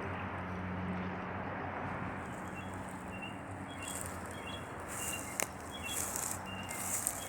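Outdoor background with a steady low rumble and hum, and short high bird chirps repeating from a few seconds in. A pulsing high-pitched buzz joins about four seconds in, and there is a single sharp click a little after five seconds.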